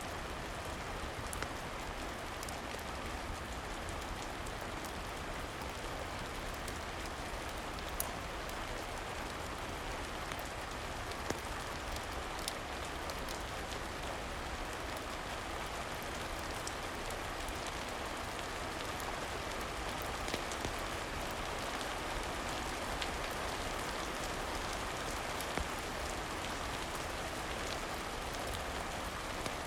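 Steady rain with occasional sharp crackles from a wood fire in a fireplace.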